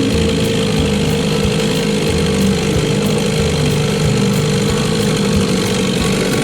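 1968 Evinrude 6 hp two-stroke outboard motor running steadily under way at speed, with an even, rapid pulsing beat.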